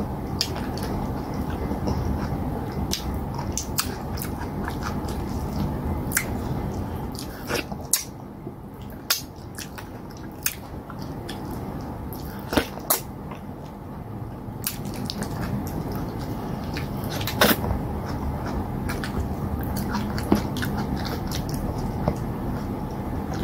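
Close-up eating sounds of fufu with slimy okra stew eaten by hand: wet chewing and smacking, with scattered sharp lip-smacks and clicks over a steady low background noise.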